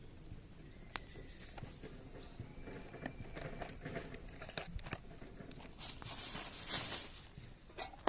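Small wood fire of zelkova and willow branches crackling, with scattered sharp pops, and a louder rustling, crinkling noise about six to seven seconds in.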